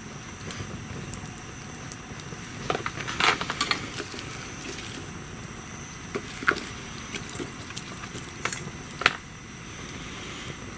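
Wood bonfire crackling, with a few sharp pops scattered through a steady hiss.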